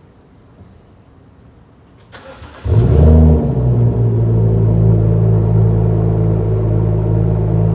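BMW 435i's turbocharged inline-six with its muffler deleted, cold-started: the starter cranks briefly about two seconds in, the engine catches with a loud flare, then settles into a steady fast cold idle.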